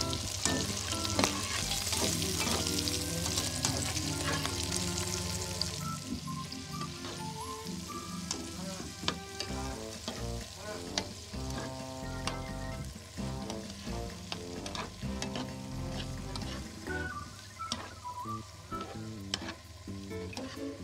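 Shrimp, onion and bitter gourd stir-frying in a pan. A loud sizzle dies down about six seconds in, and frequent clicks of a spatula against the pan run throughout. Soft background music plays underneath.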